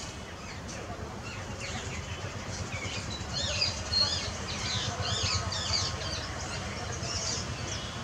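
Small birds chirping: a fast run of short, high, rising-and-falling chirps that starts about a second and a half in and stops near the end, over a steady low background rumble.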